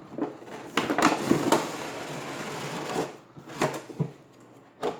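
A product box being opened by hand and its packaging handled: a quick run of knocks and scrapes, a stretch of rustling, then a few more single knocks.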